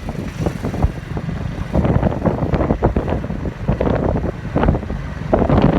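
Wind buffeting the microphone in uneven gusts over a steady low vehicle rumble, as from a moving car.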